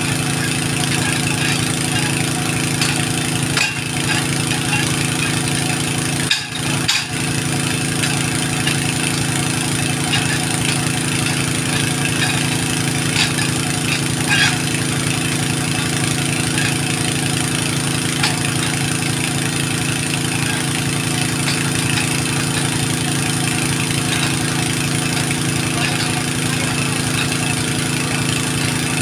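An engine running steadily at a constant speed, with brief dips in level about 4 and 7 seconds in.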